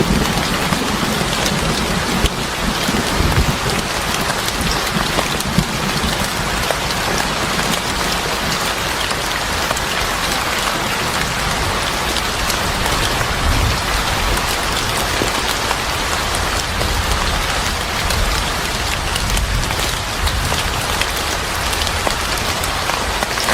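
Steady heavy rain falling, with scattered sharp ticks and a low rumble that swells now and then.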